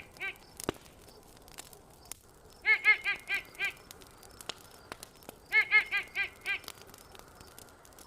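A campfire crackles with scattered sharp pops. Over it, an animal call made of a quick run of about six nasal notes sounds twice, about three seconds apart.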